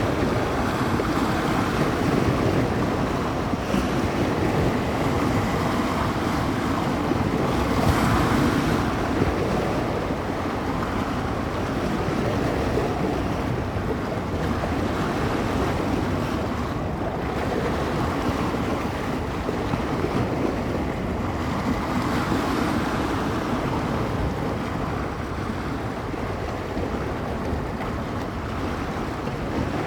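Small bay waves breaking and washing along the shore, a continuous wash that swells and eases with each wave, with wind gusting across the microphone.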